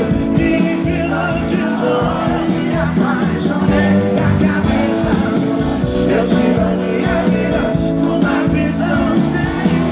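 Live sertanejo band music, loud and steady, with singing over the band.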